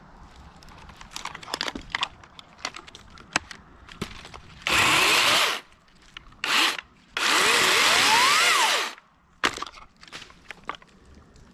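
Dewalt 60V top-handle battery chainsaw cutting through small pine branches in three short bursts, the last and longest lasting nearly two seconds, its motor whine rising in pitch as the chain bites. Light clicks and cracks of wood and bark come before the cuts and just after them.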